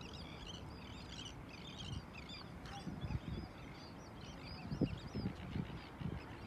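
Birds chirping and chattering in quick, overlapping calls over a steady low outdoor rumble, with a few low thumps around three seconds in and again near the end.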